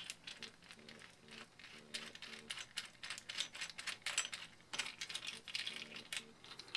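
Small screwdriver working a tight screw in a lens's metal rear flange, turned back and forth to free it, making many light, irregular metallic clicks and ticks.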